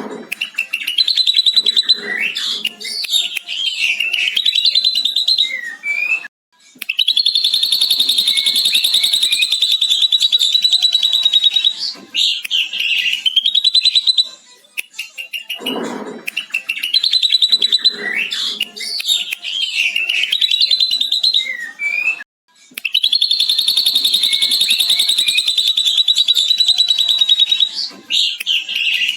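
Ashy drongo singing a mimicked lovebird 'ngekek': short varied whistled phrases, then a long, fast, even chattering trill lasting about five seconds. The same sequence repeats twice, with a brief cut before each long trill.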